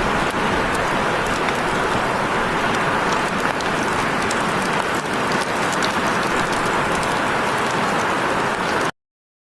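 Heavy rain falling: a steady hiss with many small drop ticks scattered through it, cutting off abruptly about nine seconds in.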